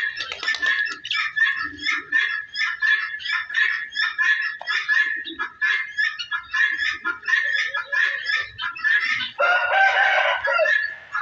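Flock of birds calling in quick, short, high notes, several a second, with a rooster crowing once near the end.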